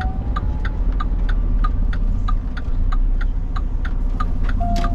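A semi truck's turn-signal flasher clicking steadily in the cab, about four clicks a second, over the low, steady rumble of the truck's diesel engine as the truck pulls onto the shoulder.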